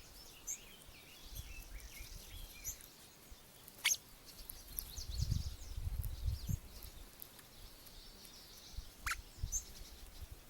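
Small birds chirping and calling with many short, high notes. Two sharp, quick downward-sweeping calls stand out, about four seconds in and again near the end, and a low rumble runs through the middle.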